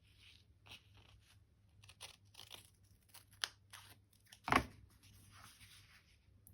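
Craft material being folded and handled by hand: a string of crisp rustles and crinkles, with one louder sharp crackle about four and a half seconds in.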